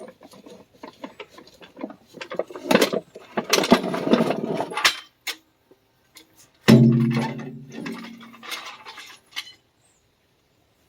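Metal clicking and clattering as a jack is worked and taken out from under the tractor, then one loud metal clang about seven seconds in that rings briefly and fades.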